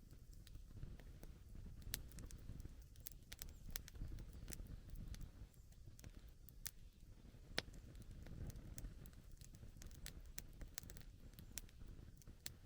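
Wood campfire crackling: scattered sharp pops and snaps over a soft low rumble, with one louder pop about seven and a half seconds in.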